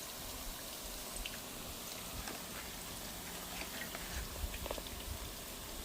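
Hot oil sizzling as lumpia deep-fry in an electric pan: a steady hiss with small scattered pops and crackles.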